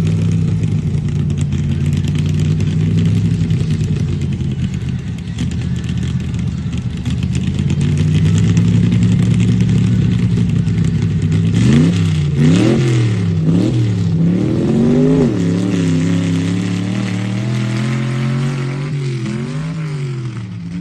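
Vehicle engine with a misfire, idling steadily and then revved in three quick throttle blips about twelve seconds in, followed by a longer rev and another near the end.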